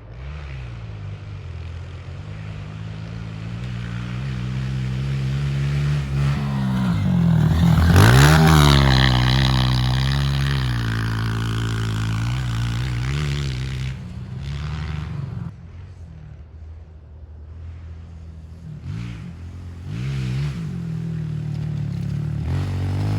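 Honda CRF125 pit bike's single-cylinder four-stroke engine revving up and down as it is ridden off-road, getting louder and passing close about eight seconds in, then fading and coming back near the end.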